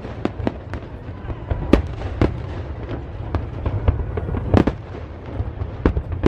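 Aerial fireworks shells bursting in quick, irregular succession, several bangs a second, with a few louder booms about two and four and a half seconds in, over a steady low rumble.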